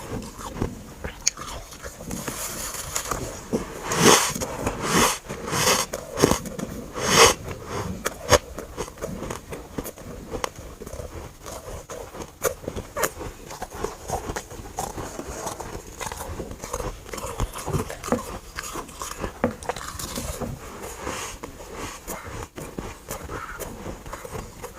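Freezer frost chunks being bitten and chewed close to the microphone: a run of loud crunching bites about two to seven seconds in, then quieter chewing crackles.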